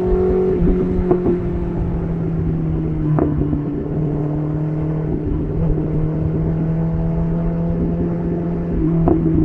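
BMW S1000RR's inline-four engine running through an SC Project titanium exhaust at a steady speed, its note sinking slightly in pitch. A few sharp clicks cut through, at about one, three and nine seconds in.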